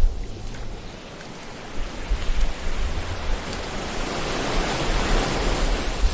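Ocean surf: a wave's wash swells over a few seconds to its loudest near the end, then begins to recede, with a low rumble underneath.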